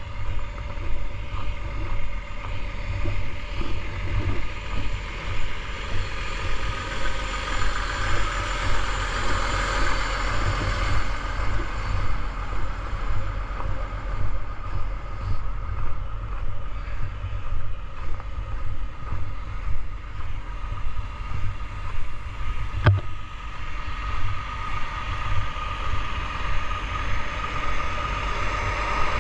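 Gravel truck's engine running steadily while the truck drives, with a low pulsing rumble and a steady whine. A single sharp click comes about 23 seconds in.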